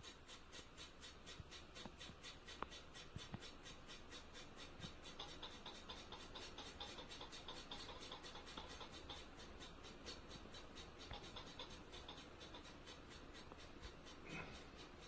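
LEDUNI retractable-blade ceiling fan running, with a faint, even ticking of about five ticks a second, a repetitive 'ta, ta, ta' noise.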